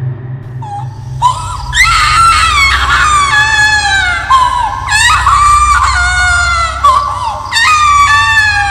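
Horror sound effect of a ghostly baby crying and screaming: a run of high, drawn-out wailing cries from about a second in, each sliding down in pitch, over a steady low drone.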